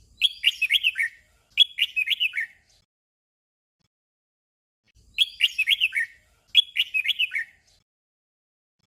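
Red-whiskered bulbul singing its short 'double' song twice, about five seconds apart. Each song is two quick phrases of bright whistled notes, and the two songs are the same.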